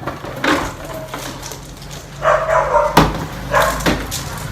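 Dog barking a few times in short bursts, shut in a cage and wanting to be let out.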